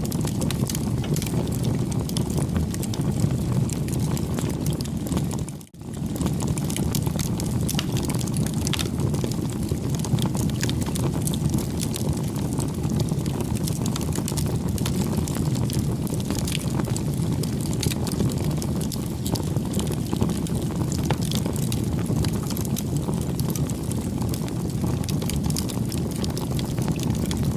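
Wood campfire burning: a steady low rush of flames with frequent small crackles and pops. The sound dips out for a split second about six seconds in.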